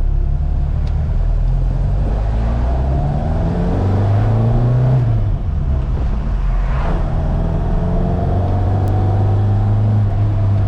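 1975 Ford Escort Mk1 rally car's 2-litre Pinto four-cylinder engine on Weber carburettors, accelerating hard: the revs climb, drop sharply about five seconds in, then climb again.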